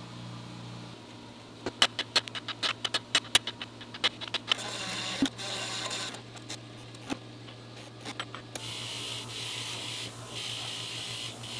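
A quick, irregular run of sharp metallic clicks and clinks, then a bench wire wheel starting up and spinning with a steady hiss from about nine seconds in.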